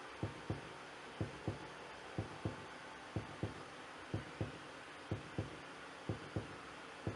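Altair 231 analog synthesizer playing a quiet patch of short low thumps in pairs, about one pair a second like a heartbeat, each dropping quickly in pitch, over a steady hiss.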